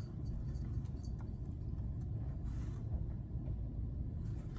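Steady low background rumble with a few faint clicks and a soft rustle about two and a half seconds in.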